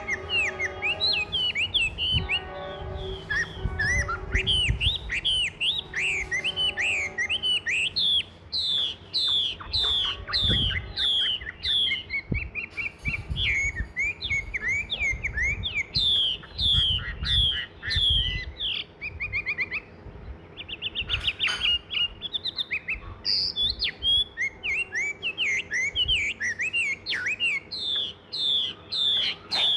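Songbirds chirping busily, a dense run of short, quick, downward-sliding chirps that keeps going, with low rumbles underneath.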